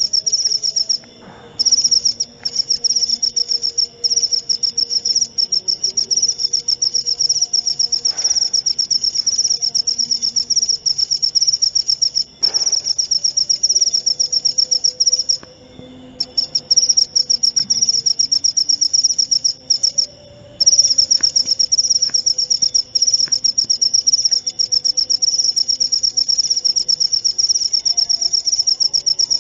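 Jaliteng cricket chirping in a loud, fast, high-pitched trill that stops briefly a few times and starts again.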